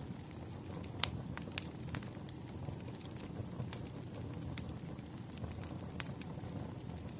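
Wood fire burning: a steady low rumble with irregular sharp crackles and pops, the loudest about a second in.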